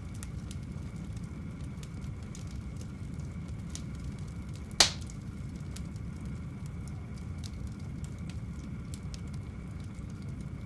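Wood fire burning in a fireplace: a steady low rumble with scattered small crackles, and one loud sharp pop about halfway through.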